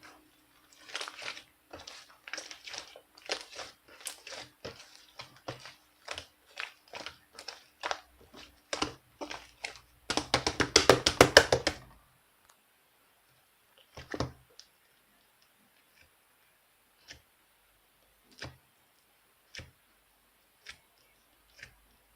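Irregular close-up clicks and crinkling handling sounds, with a dense run of rapid crackles about ten seconds in, then only sparse single clicks.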